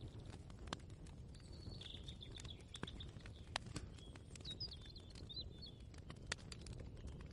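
Kitchen ambience: a faint low rumble with scattered light clicks and knocks, and faint bird chirping from about a second in until past the middle.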